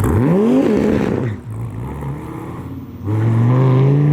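A car engine blipped once, its pitch sweeping up and falling back, then settling to a lower idle before the car pulls away hard about three seconds in, its pitch climbing steadily under acceleration.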